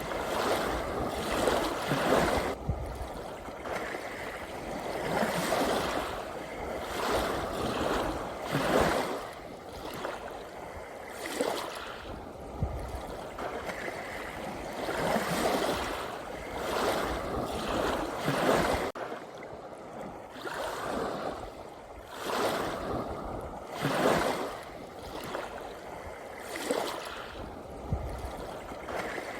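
Small sea waves washing in, one surge after another every couple of seconds.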